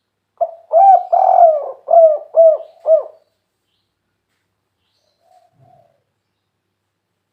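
Spotted dove (tekukur) cooing one full song phrase: a short opening note, two drawn-out coos, then three short clipped 'kuk' notes at the end. This three-note ending is the 'kuk 3' song type that keepers prize. A faint short coo follows about two seconds later.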